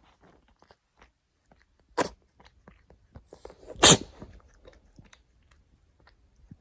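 A cat sneezing twice, about two seconds apart, the second sneeze louder.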